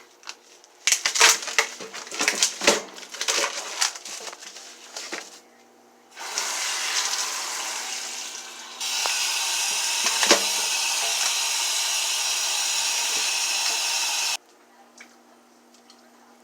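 Kitchenware clattering and knocking for a few seconds, then a steady rushing sound that gets louder partway through and cuts off suddenly after several seconds.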